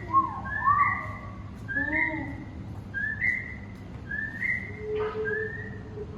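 Birds whistling: a short rising whistled call repeats about once a second, with lower arching whistles in the first two seconds and a low steady tone joining about five seconds in.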